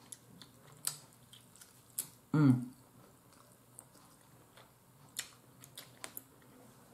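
Close-up mouth sounds of a person chewing baked chicken: scattered wet clicks and smacks, with one brief voiced sound, falling in pitch, about two and a half seconds in.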